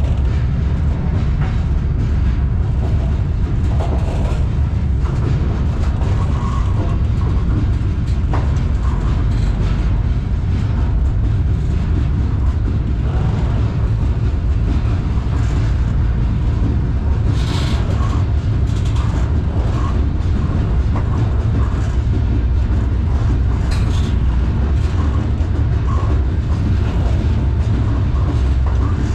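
Double-stack intermodal freight train rolling, heard from the deck of a well car: a steady low rumble, with a couple of short sharp clanks about two-thirds of the way in.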